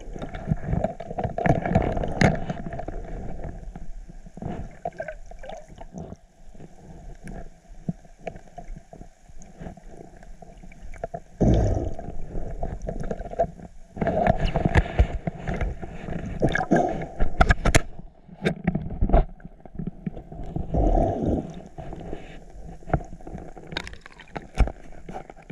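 Ocean water sloshing and gurgling around a swimmer moving slowly through it, in irregular surges with small knocks.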